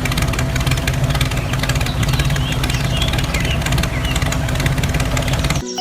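Engine running steadily with a fast, even chug. It cuts off abruptly just before the end.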